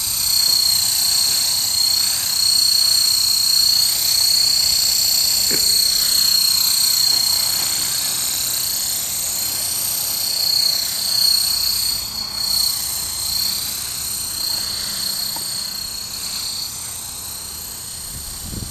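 Small electric RC helicopter (Esky Honey Bee King 2 with a 3900kv brushless motor) in flight: a high-pitched motor and gear whine that wavers in pitch and swells and fades as it flies about.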